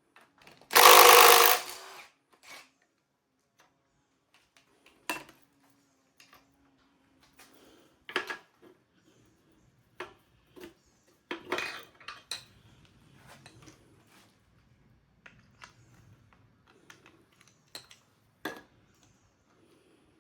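Scattered metal clinks, knocks and clatter of engine parts being handled during an engine teardown, with one loud, harsh noise about a second long near the start.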